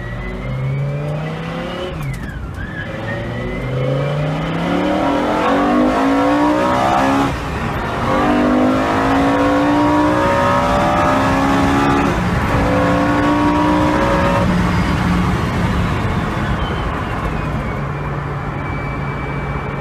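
Engine-swapped sports car accelerating hard through the gears, heard from inside the cabin: the engine note climbs in each gear and drops back at several upshifts, then holds steady for the last few seconds.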